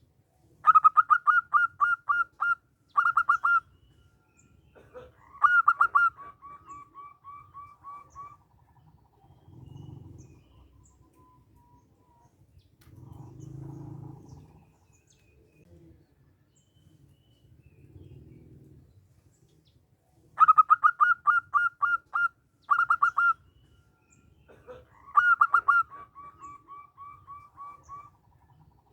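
Zebra dove (perkutut) singing: two bouts of its rapid staccato cooing, about twenty seconds apart. Each bout is a quick run of loud notes, then after a short pause another loud burst that trails off into a longer series of softer, slightly lower notes.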